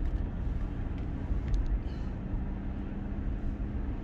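Car engine and road noise heard from inside the cabin while driving: a steady low rumble, with a steady hum joining about two seconds in.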